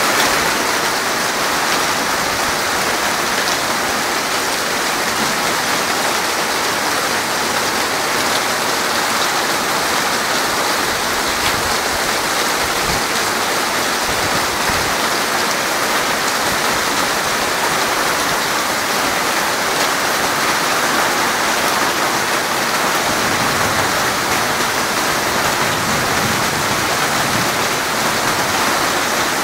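Rain falling steadily on the ground: an even, unbroken hiss that neither rises nor falls.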